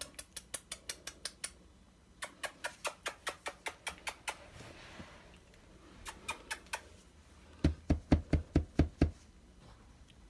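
Quick runs of sharp clicks at about six a second, made by a person to call the puppies. They come in several bursts, and the last, loudest burst has a dull thud to each click.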